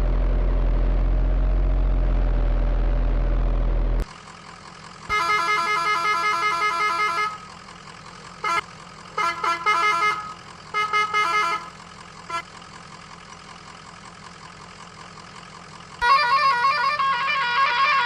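Vehicle sound effects: a steady engine drone that cuts off about four seconds in, then a long pulsing horn blast and several short honks, and a warbling horn-like tone starting near the end.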